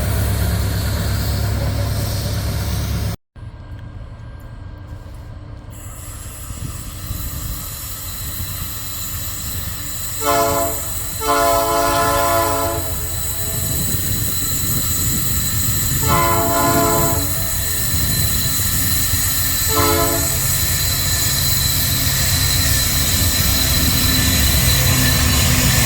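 Diesel freight locomotive air horn sounding four blasts: a short one, a long one, a medium one and a very short one. They sound over the rumble of an approaching train that grows steadily louder. Before that, a loud low train rumble cuts off abruptly about three seconds in.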